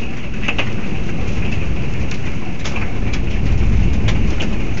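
Hail and rain falling steadily, a dense low rumbling noise with scattered sharp ticks of hailstones striking, a few each second.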